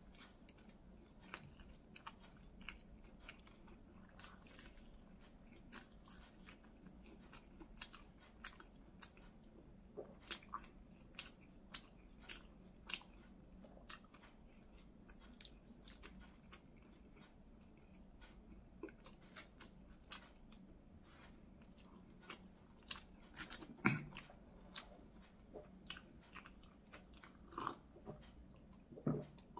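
Close-up mouth sounds of a person chewing a fried pastry filled with red bean paste: soft, scattered wet clicks and smacks. There is a louder thump about three-quarters of the way through, and a sip from a cup near the end.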